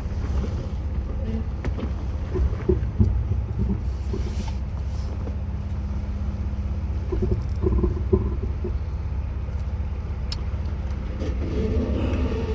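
Jeep Wrangler engine running low and steady while crawling over a rocky trail, with scattered short knocks and clunks. A thin high tone sounds for a few seconds past the middle.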